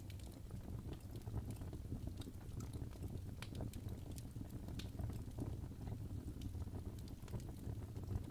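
Fireplace fire crackling: a steady low rumble of burning with frequent small, irregular pops and snaps.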